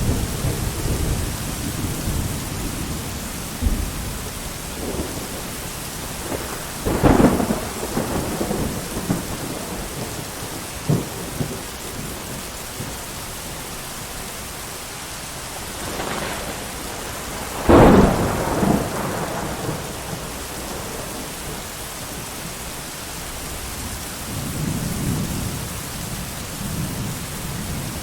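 Steady heavy rain with thunder: two sharp thunder cracks, about 7 and 18 seconds in, the second the loudest, and low rolling rumbles near the start and again near the end.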